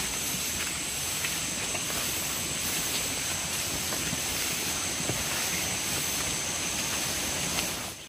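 Night-time tropical forest ambience: insects trilling in a steady, unbroken high-pitched drone over a hiss, with a few faint clicks. It cuts off suddenly near the end.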